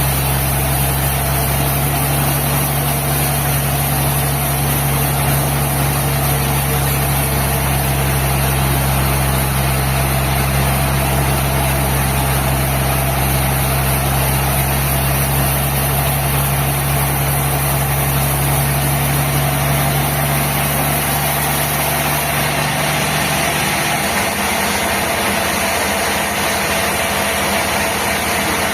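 Sawmill machinery running steadily: a loud low engine-like hum over a broad hiss, the low hum dropping away about three-quarters of the way through while the hiss carries on.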